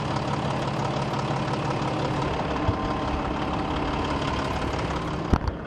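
Rally truck's diesel engine running steadily at the start line, with a couple of sharp knocks near the end.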